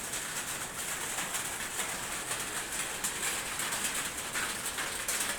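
Pigeons cooing over steady background noise.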